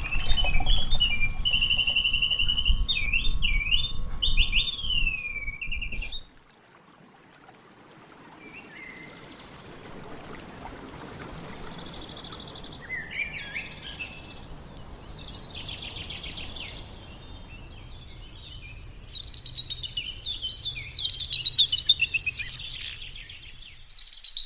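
Birds whistling and chirping, with swooping whistles over a loud low rumble for the first six seconds, which stops suddenly; after that come quieter chirps and trills that grow busier near the end.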